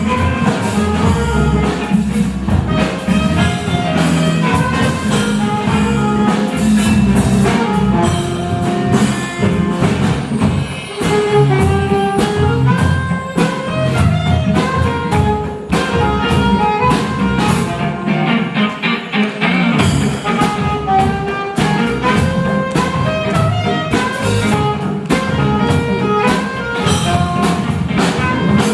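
Live band music with no singing: instrumental melody notes over a steady beat.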